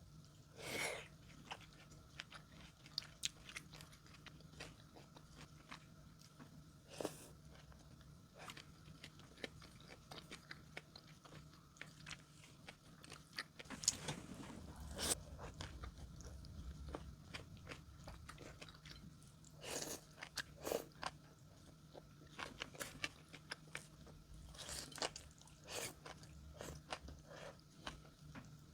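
Close-up eating sounds: chewing with scattered crisp crunches and bites of steamed cabbage, bean sprouts and enoki mushrooms, over a faint steady hum.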